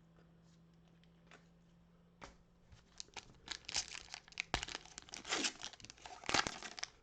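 A foil trading-card pack wrapper being torn open and crinkled: a couple of faint crackles, then dense rustling and crinkling from about three seconds in.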